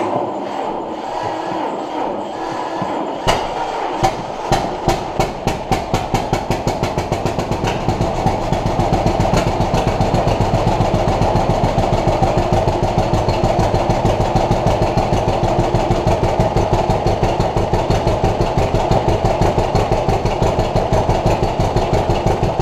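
1950 John Deere B's two-cylinder engine being cranked by the starter, then catching about three seconds in: separate pops that come quicker and quicker until, about eight seconds in, it settles into a steady, even running beat. This is the first start after a cylinder-head overhaul, with the choke off and a little throttle.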